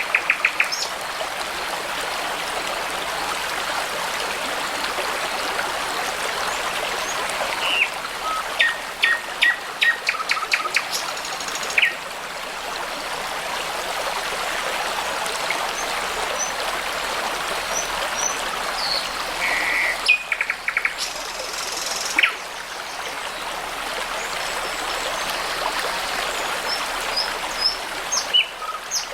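A small brook babbling steadily, with songbirds calling over it now and then: short chirps, thin whistles and quick trills, in a busy run about a third of the way in and again around two-thirds through.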